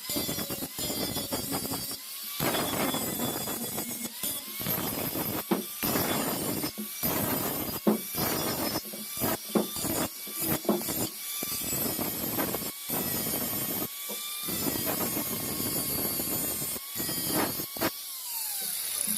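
Workshop power-tool noise, broken up by many abrupt cuts every second or two.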